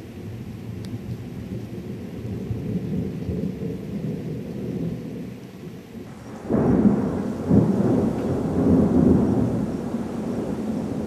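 Thunder from a monsoon thunderstorm: a low rolling rumble, then a sudden, much louder clap about six and a half seconds in, with a second crack a second later, rumbling on.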